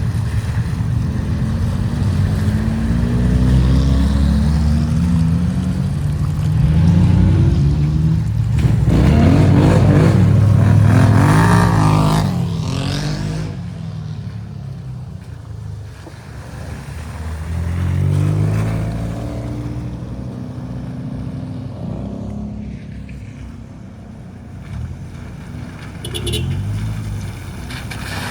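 Off-road 4x4 engine revving under load, its pitch rising and falling over and over. The loudest stretch comes about nine to twelve seconds in.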